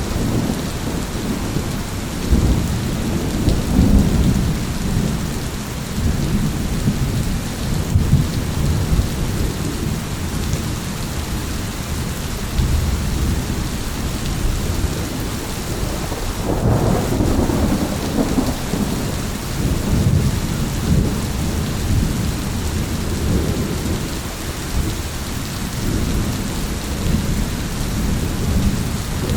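Thunderstorm: steady rain hissing while low thunder rumbles roll and fade throughout, with a stronger roll of thunder about sixteen seconds in.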